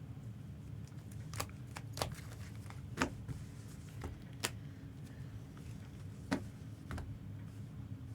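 Trading cards and their packaging handled on a tabletop: several sharp clicks and taps at irregular intervals, over a steady low hum.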